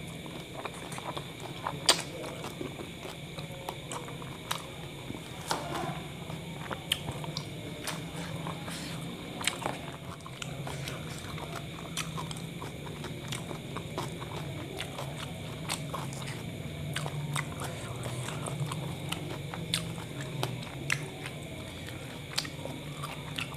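Close-miked biting and chewing of a kebab wrap topped with yogurt, with many sharp clicks and smacks scattered through, over a steady low hum.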